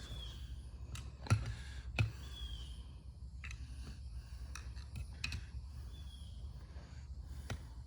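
Scattered sharp metal clicks and taps of hand tools working at a snap ring, about eight in all, irregularly spaced. Through it a faint short high chirp repeats every two to three seconds, from the young birds in the shop.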